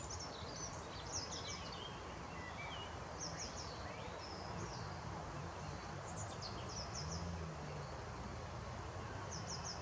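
Small songbirds singing short, high, quick phrases, repeated every few seconds, over a steady low rumble of outdoor background noise.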